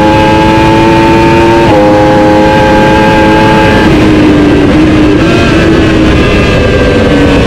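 Racing superbike engine at high revs, climbing steadily with a sharp drop as it shifts up a gear about two seconds in. About halfway through the revs fall and waver lower as the bike slows.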